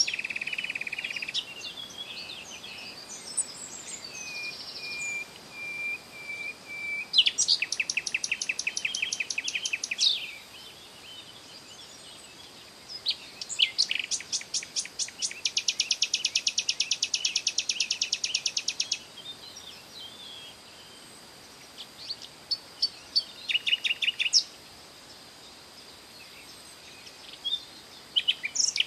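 Wild songbirds singing and chirping, with several rapid trills of fast, evenly repeated high notes lasting a few seconds each, between scattered single chirps. A faint steady high tone runs underneath.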